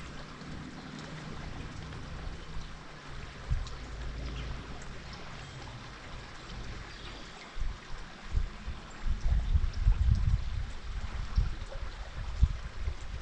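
Water streaming and trickling steadily. A faint low hum runs under it at first. From about halfway through, gusts of wind buffet the microphone with low rumbles.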